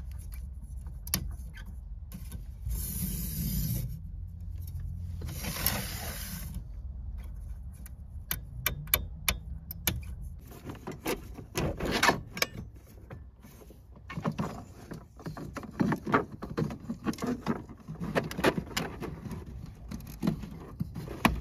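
Van window blinds being handled and fitted: two short hissing scrapes in the first seven seconds, then many sharp clicks, knocks and scrapes of the parts being pushed into place.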